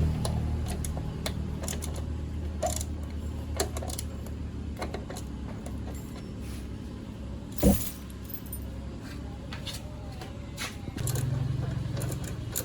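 Small motorbike engine idling steadily, with scattered metallic clicks and one sharp knock about eight seconds in; the engine note steps up a little near the end.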